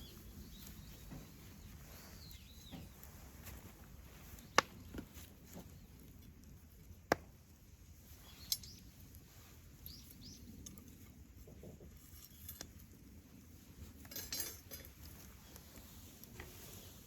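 Wood campfire burning quietly with scattered crackles and three sharp pops about a third and halfway through. Faint bird chirps can be heard now and then.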